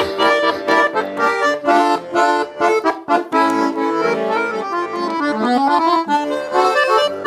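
Garmon (Russian button accordion) playing an instrumental break between verses of a folk song: a quick-moving melody over held chords.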